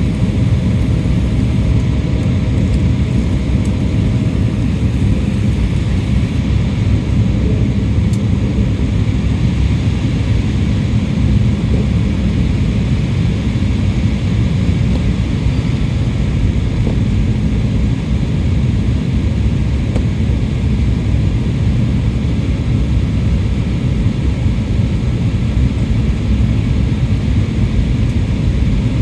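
Steady roar of a JAL jet airliner's engines and airflow heard inside the passenger cabin in flight, with a faint steady tone that stops a few seconds in.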